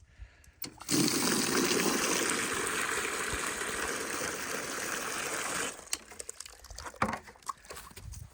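Water running hard from an outdoor yard water hydrant, turned on about a second in and shut off after about five seconds.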